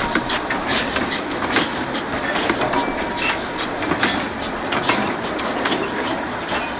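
Small 1915 steam locomotive and its wagons moving slowly, a steady running noise with sharp clicks about twice a second.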